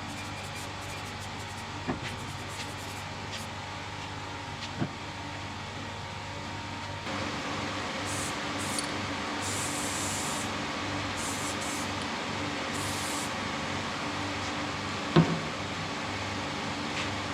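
A machine running with a steady hum that gets louder and busier about seven seconds in, with a few short knocks, the loudest near the end.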